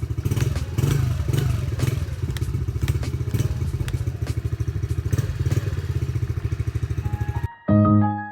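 Suzuki DR-Z dirt bike's single-cylinder four-stroke engine running at idle with a rapid, even pulse. It cuts off abruptly near the end, and a short musical jingle starts.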